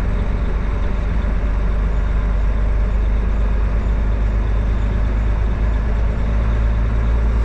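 Diesel truck engine running with a steady low rumble, heard from inside the cab, with a slight change in the engine note near the end.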